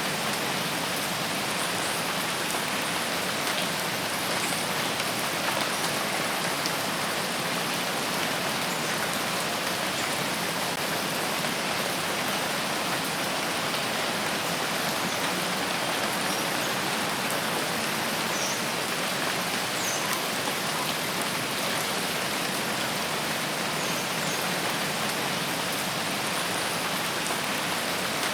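Steady rain falling, an even hiss with scattered faint drop ticks and no change in intensity.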